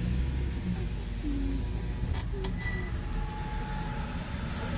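Car engine idling, heard as a steady low rumble inside the cabin, with a light click about two seconds in.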